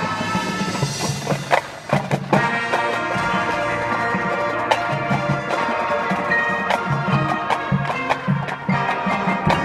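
Marching band playing: held chords from the horns and winds with frequent sharp percussion strikes, several close together about two seconds in.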